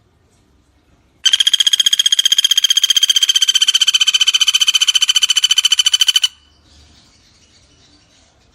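Pelatuk bawang woodpecker giving one long, fast, even rattling trill of about five seconds, starting about a second in and cutting off sharply, over faint background insect and bird noise.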